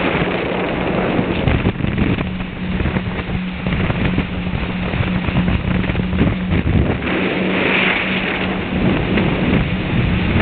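Jet ski engine running steadily under way, a constant drone over rushing water and spray noise.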